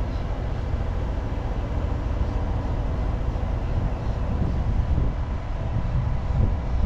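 Cat 320 excavator's diesel engine running with a low, steady rumble and a faint steady whine as the boom is worked.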